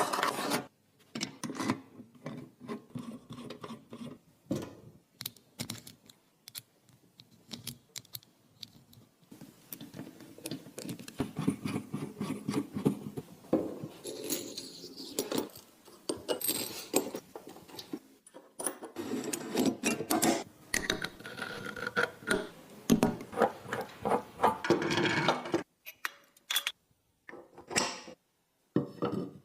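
Small metal parts of a metal turbofan engine model clinking, clicking and rattling as they are handled, in irregular knocks and short jangly runs.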